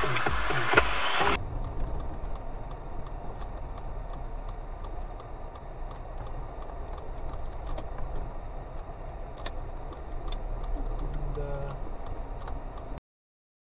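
Background music cuts off abruptly about a second in, giving way to a steady low car engine and road rumble with a few faint clicks. Everything stops suddenly near the end.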